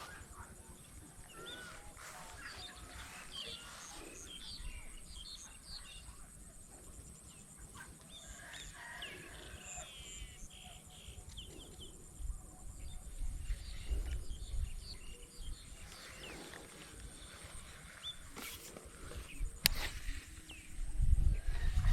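Small birds chirping and twittering on and off, over an intermittent low rumble, with a sharp click near the end.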